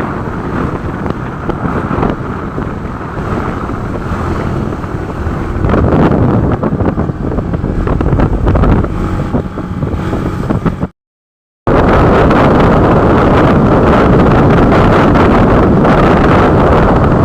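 Wind rushing over the microphone and road and engine noise from a moving motorcycle. The sound cuts out completely for a moment about eleven seconds in, then comes back louder and steadier.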